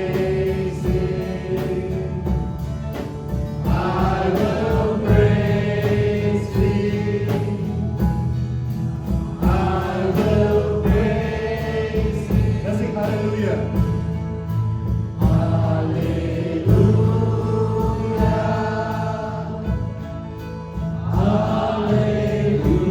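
Live gospel worship music: a group of voices singing long held phrases over a band with a steady beat.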